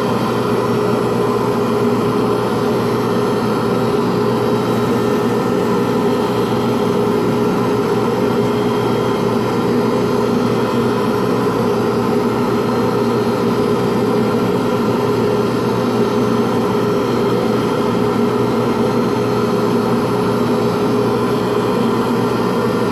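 Lathe running steadily with a constant hum, spinning a pen blank during wet sanding with fine 2400-grit abrasive.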